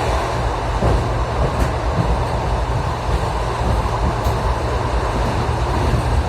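Passenger train running along the line, heard from inside the car: a steady rumble of wheels on rails with a rushing hiss and a couple of faint ticks.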